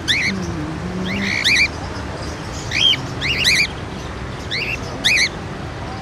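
Birds calling repeatedly: short, sharp rising calls every second or so, some in quick pairs or triplets, over steady background noise.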